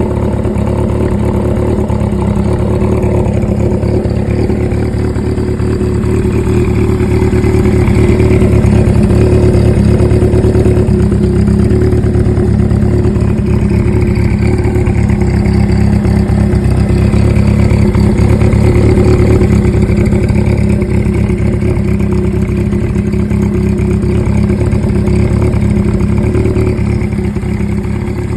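Suzuki GS750's air-cooled inline-four engine idling steadily, the sound swelling slightly twice.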